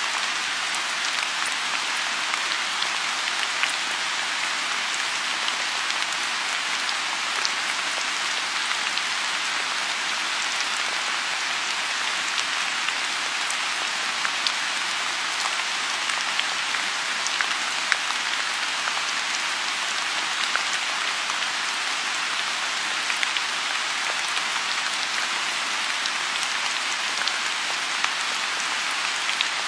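Steady rain falling on a lotus pond: an even hiss of rainfall with many small, scattered drop ticks.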